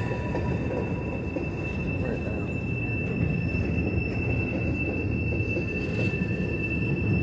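Providence & Worcester freight cars rolling past with a steady rumble and a continuous high-pitched wheel squeal, sounding like dragging brakes.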